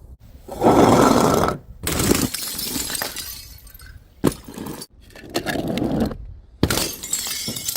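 Glass bottles smashing one after another: several separate crashes, each a sharp impact followed by a jangle of breaking and scattering glass, with abrupt cuts between them.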